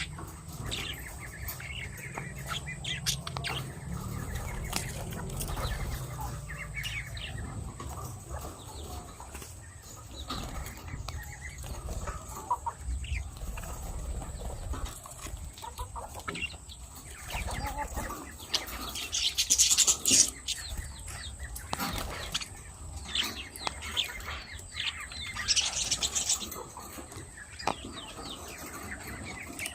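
Lovebirds bathing: spells of wing-flapping and water splashing, with two louder spells about two-thirds of the way in and near the end, among scattered bird calls.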